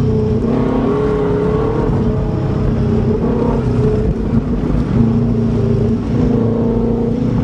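Subaru Legacy engine running at a fairly steady pitch while the car is driven, over a dense low rumble.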